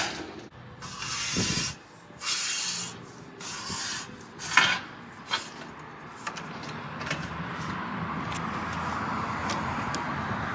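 Rubbing and scraping of car wash hose fittings being worked loose by hand: several short scraping bursts and a few sharp clicks, then a steady scraping noise through the last few seconds.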